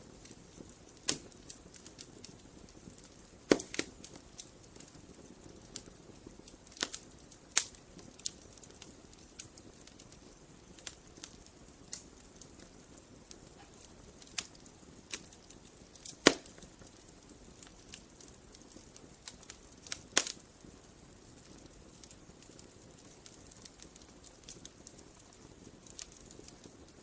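Wood fire crackling: irregular sharp pops and snaps of burning wood, a few of them much louder, over a soft steady hiss.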